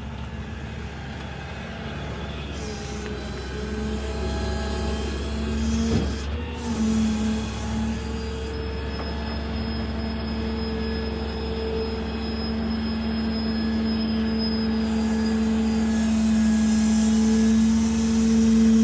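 Flatbed tow truck's engine and hydraulics running under load as the bed is worked: a steady hum that grows slowly louder, with a single clunk about six seconds in and a faint high whine partway through.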